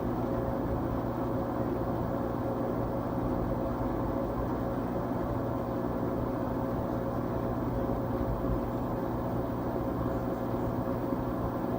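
LG Tromm WD-CR101C front-loading drum washing machine, about 13 years old, running steadily partway through a quick-wash cycle: an even mechanical whir with a steady hum.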